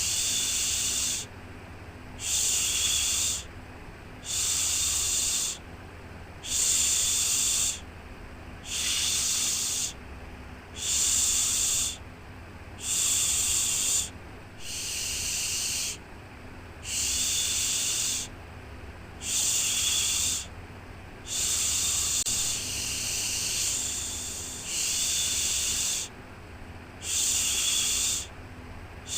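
Rhythmic 'shhh' shushing for soothing a baby to sleep, one shush about every two seconds, each lasting about a second, over a faint steady low rumble.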